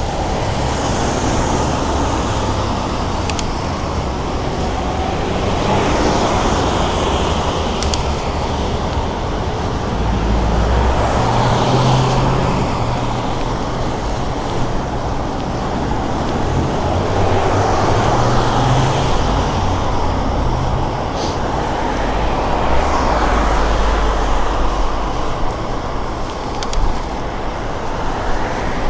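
Busy road traffic passing close by, heard from a moving bicycle. A steady wash of tyre and engine noise with a low rumble, swelling every few seconds as vehicles go by.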